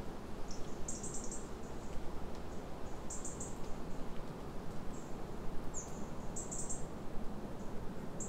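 Small birds chirping in short high-pitched bursts, about six clusters a second or two apart, over a steady hiss of outdoor background noise.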